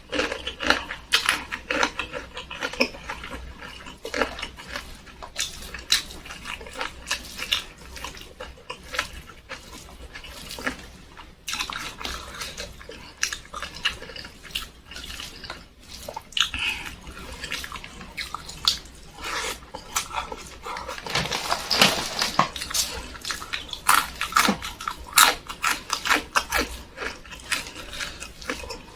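Close-miked chewing and wet lip-smacking, a stream of irregular small clicks and smacks from someone eating rice with fried tempe and sambal.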